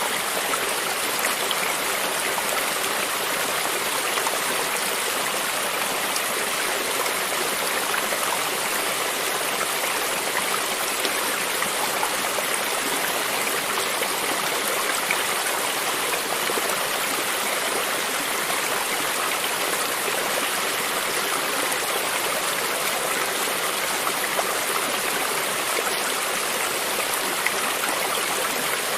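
Creek water running steadily over stones, a continuous splashing rush with no change.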